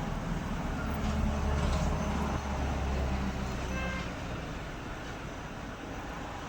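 A passing motor vehicle's low rumble swells and fades away, with a brief horn toot just before it dies down.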